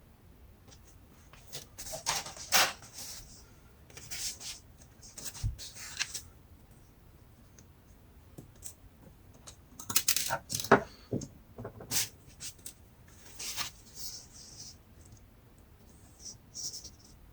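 Parts of an Acer Aspire 3 laptop being handled during disassembly: scattered sharp clicks, taps and short scrapes of small plastic and metal pieces, coming in irregular clusters with short pauses between.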